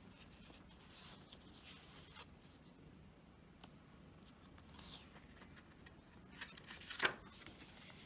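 Faint rustling and rubbing of paper as the pages of a photobook are handled and turned, with one sharper papery snap about seven seconds in.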